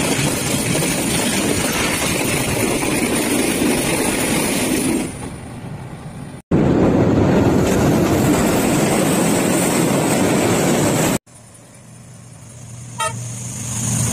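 Diesel trains passing close, in cuts: a loud, steady rumble and clatter of wheels on the rails as a container wagon and then passenger cars go by. After that comes the low, steady hum of a diesel locomotive approaching, growing louder, with a brief sharp sound near the end.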